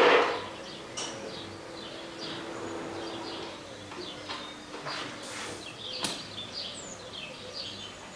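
Small birds chirping repeatedly, with a couple of sharp clicks about a second in and again near the end.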